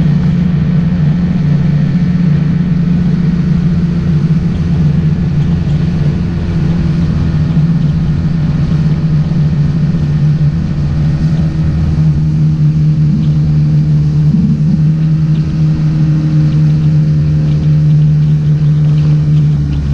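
Motorboat engine running steadily at a constant speed, its pitch holding level throughout.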